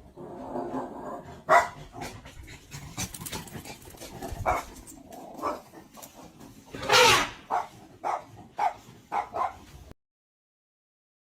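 A dog barking and yipping in short, sharp calls, with a quick run of barks near the end, then dead silence.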